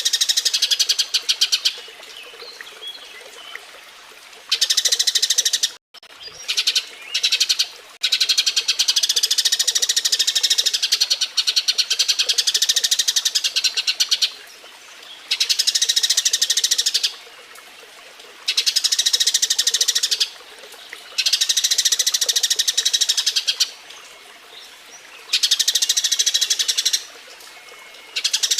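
Eurasian tree sparrow chirping rapidly in repeated bouts of one to six seconds with short pauses between them: the excited chattering of its mating call.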